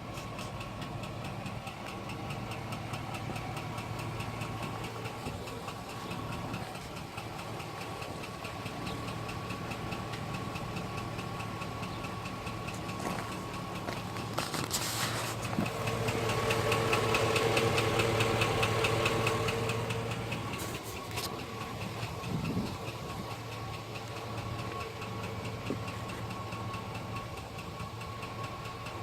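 2005 GMC Sierra pickup's engine idling with a steady rhythmic knock from inside the engine. The engine note grows louder for a few seconds past the middle.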